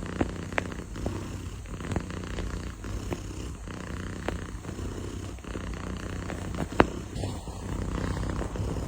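Domestic cat purring steadily, a low continuous rumble, with a few scattered clicks and one sharper tap about two-thirds of the way through.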